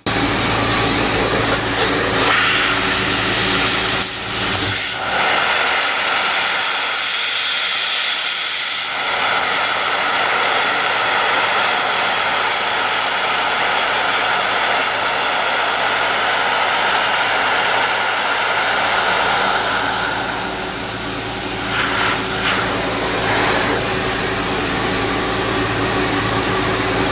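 Abrasive blast nozzle running: a loud, steady hiss of compressed air and grit, with a low, steady hum underneath. The level dips briefly about twenty seconds in.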